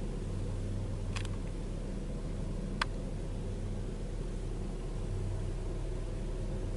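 Car engine idling: a steady low hum, with two brief clicks, about one and three seconds in.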